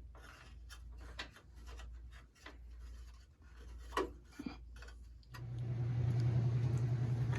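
Light clicks and taps of small metal parts and tools being handled. About five seconds in, a steady low machine hum starts and gets louder.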